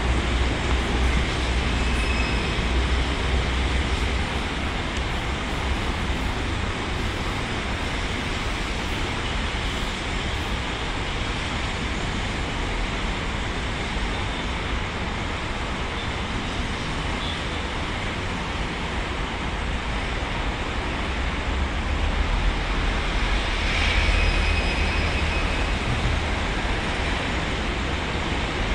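Steady rumble of rail and road traffic: a CPTM electric commuter train at the station over road traffic, with a deep low rumble that is heavier near the start and again about three-quarters of the way through.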